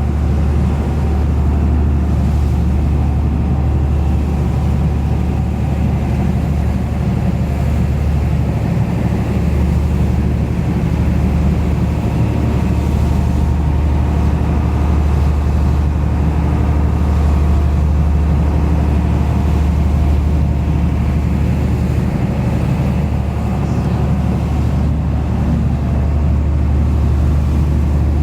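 Fishing boat's engine running steadily with a low drone, heard from the stern.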